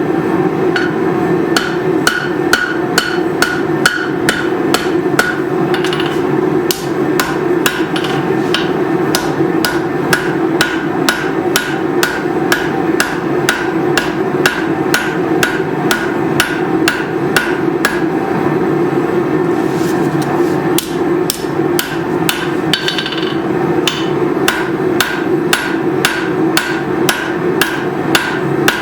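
Hand hammer striking hot leaf-spring steel on an anvil at an even pace of about two to three blows a second, each blow with a short metallic ring. There is a brief pause about two-thirds of the way through, and a steady hum runs underneath.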